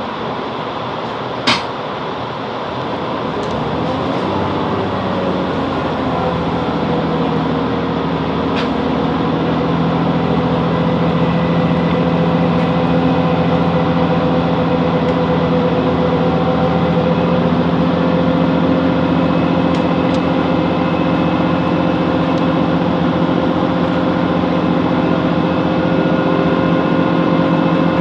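Class 165 Networker Turbo diesel multiple unit heard from inside the carriage, its diesel engine building up as the train pulls away, then running steadily. There is a single click about a second and a half in.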